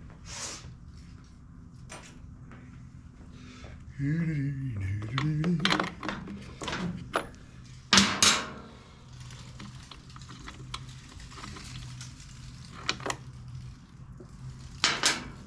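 Hand tools and parts clinking and knocking against the metal and plastic of a backpack blower as it is taken apart. The clicks are scattered, with a loud sharp clack about eight seconds in and another near the end.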